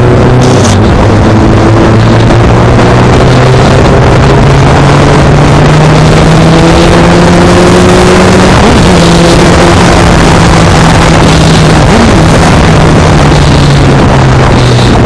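Honda CBR600F's inline-four engine running at a steady cruise while riding, its pitch slowly creeping up, under a loud constant rush of noise.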